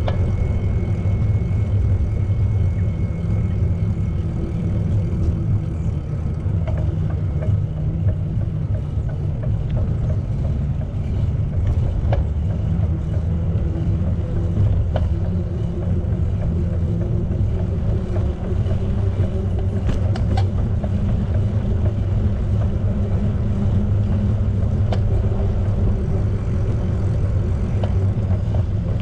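Steady low rumble of wind and rolling noise while riding a bicycle, with a few faint clicks.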